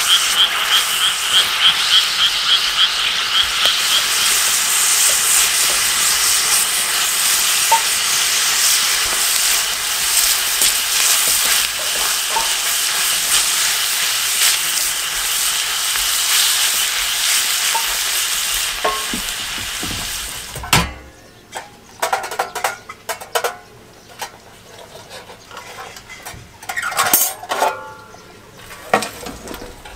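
Food frying and sizzling loudly in a pan over a wood fire, with a rapid run of chirping pulses fading out in the first few seconds. About two-thirds of the way through the sizzle cuts off abruptly, leaving scattered light clicks and knocks of utensils.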